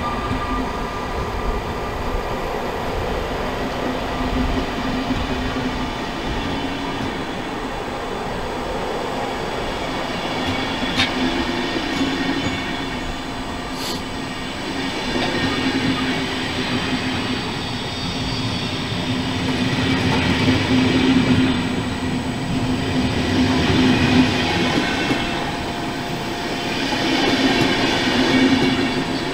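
SBB passenger coaches rolling slowly past at a station: a steady rumble of wheels on rail with thin high wheel-squeal tones over it. The sound swells and eases every few seconds as the coaches pass, with a couple of brief clicks.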